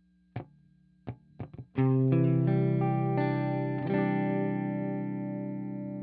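Aria Pro II Vanguard electric guitar through a clone of The Warden optical compressor pedal and a tweed amp simulator. A few short, faint muted picks are followed, a little under two seconds in, by a chord struck and left ringing, slowly fading.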